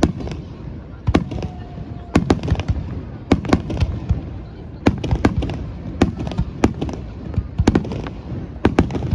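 Fireworks shells bursting overhead in a rapid barrage: a string of sharp bangs, often two or three in quick succession, about one to two a second.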